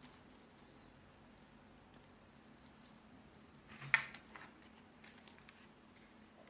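A quick cluster of keystrokes on a 2.4 GHz wireless office keyboard about four seconds in, followed by a few faint key clicks.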